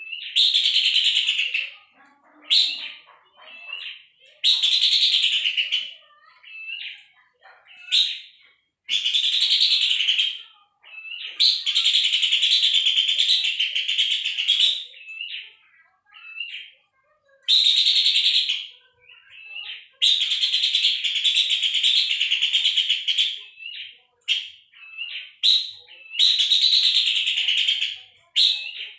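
Pelanduk semak babbler calling: rapid chattering trills, each lasting one to three seconds, repeated with short gaps, with brief thin notes between them.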